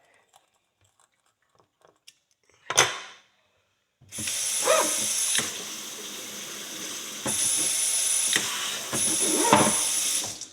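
Running water rinsing a dirt-caked horseshoe, starting about four seconds in as a steady hiss that changes strength a few times, flushing out a clogged nail hole. A single short noise comes shortly before the water starts.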